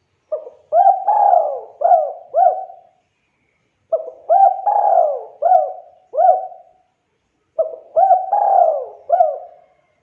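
Spotted dove (tekukur) cooing: three repeated phrases of about five notes each, a few seconds apart.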